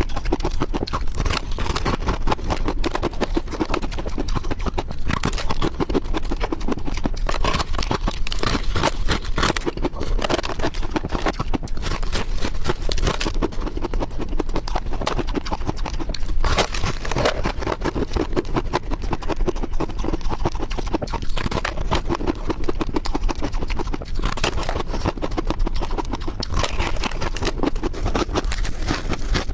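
White ice crunched and chewed close to the microphone: a continuous run of dense, crisp crackles and snaps.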